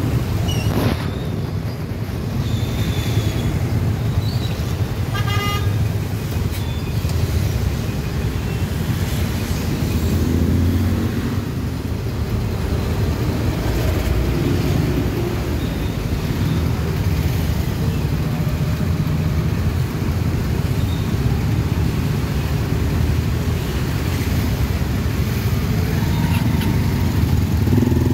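Busy road traffic heard from a motorcycle: a steady rumble of engines and road noise, with a short vehicle horn toot about five seconds in.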